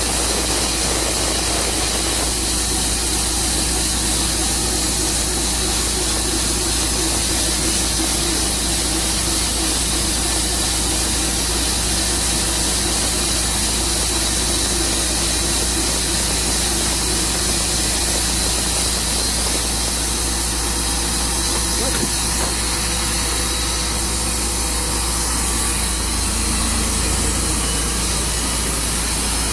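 Tru Cut portable sawmill's engine running steadily, a constant hiss over a low hum, with no change in pitch or load.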